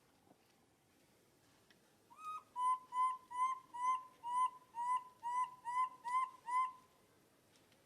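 A bird calling: a run of about eleven identical clear whistled notes, about two a second, starting some two seconds in and stopping near the end.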